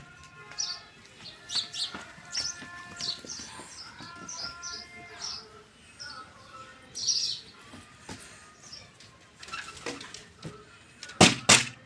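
Small birds chirping in short, repeated high calls, with two loud sharp knocks close together near the end.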